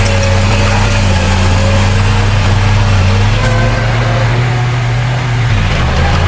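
Heavy diesel engine of earthmoving machinery (bulldozer or dump truck) running steadily at a low, even pitch, with a slight shift in pitch near the end.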